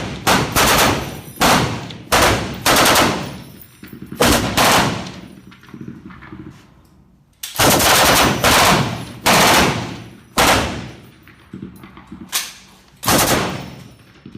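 Machine guns firing short bursts of a few rounds each, about eight bursts with pauses between, one longer burst about halfway through; each burst rings out and fades after the last shot.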